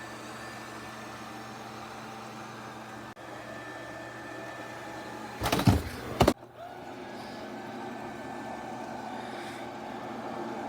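Robot vacuum running with a steady motor hum. About halfway through, a loud knocking clatter lasts under a second.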